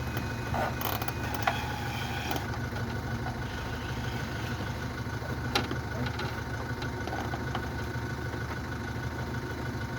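An engine idling steadily under a low, even hum, with a few light clicks of handling and two sharp ticks, about a second and a half in and past the middle.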